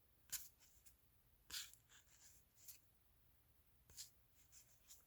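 Mostly near silence, broken by four faint, brief rustles of trading cards being handled and slid against one another.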